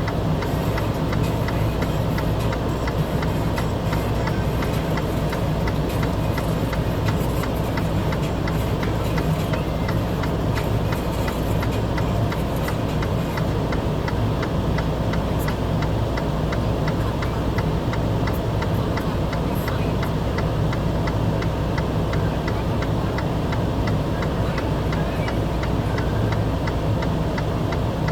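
A vehicle engine running steadily, with a fast, even ticking over its low hum.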